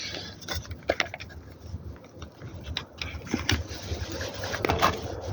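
Handling and tool noise: scattered light knocks and clicks over rustling, from someone working under a car with hand tools.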